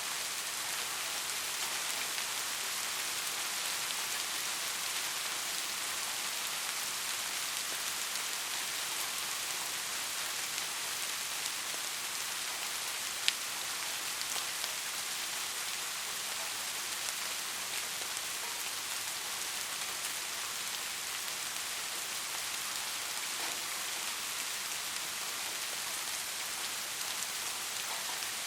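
Steady rain falling on forest foliage, an even hiss with scattered individual drops and one sharper drop tick about halfway through.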